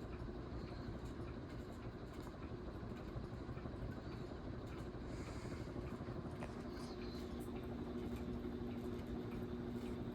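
SMC A52 ceiling fan running at high speed: a steady rush of moving air under a constant motor hum. About six seconds in, a second, slightly lower hum tone comes in.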